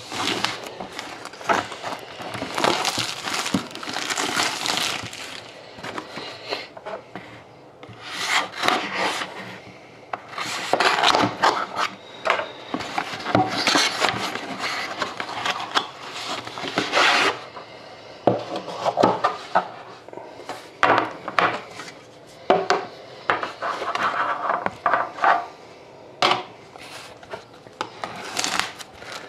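A sealed cardboard trading-card box being opened by hand: irregular stretches of scraping and rubbing on cardboard, with sharp clicks and knocks scattered between them.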